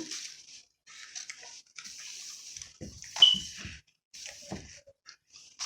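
Eating noises close to the microphone: short, intermittent bursts of chewing and food handling, with a brief squeak about three seconds in.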